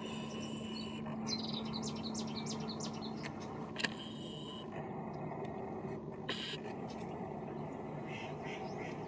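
Marsh ambience over a steady low hum. About a second in, a small bird gives a quick run of about eight short, high chirps. Two brief sharp noises follow, near the middle and about two-thirds of the way through.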